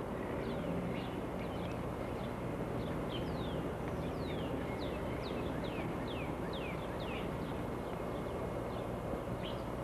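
Wild birds singing outdoors: one bird gives a run of quick notes, each falling in pitch, about two a second through the middle stretch. A steady low hum and hiss lies under it.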